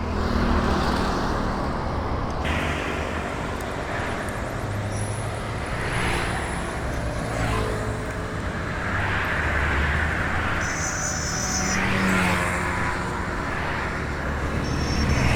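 Motorcycle being ridden through city traffic: the engine runs with a steady rumble that rises and falls with speed, mixed with the noise of surrounding road traffic.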